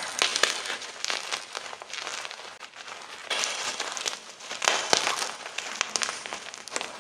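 Close-up crunching and crumbling of gym chalk blocks, a dense run of irregular crackly snaps with louder crunches at several points.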